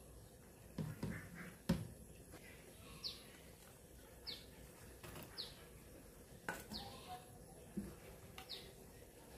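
A bird chirping faintly in the background: short, quickly falling chirps, about five of them a second or so apart. A few sharp knocks cut in, the loudest about two seconds in.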